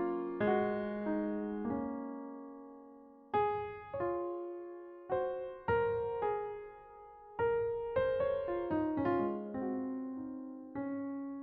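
Slow solo keyboard music in piano tones: single notes and chords, each struck and left to die away, in unhurried phrases with short pauses between them.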